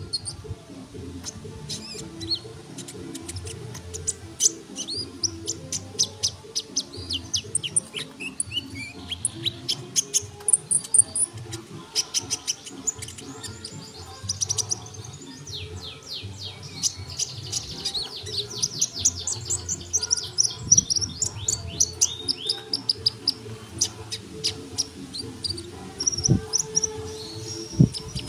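Sunbird ('kolibri') singing energetically: a fast, unbroken run of high, thin chirps and sweeping notes, with rapid trills about two-thirds of the way in, over a low steady hum.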